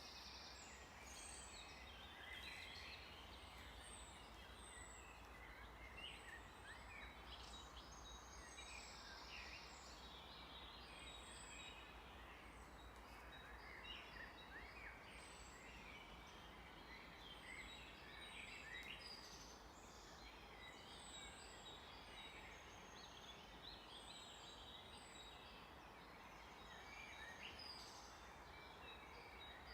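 Faint forest birdsong: many birds chirping and whistling at once in a dense, overlapping chorus of short calls, over a steady background hiss.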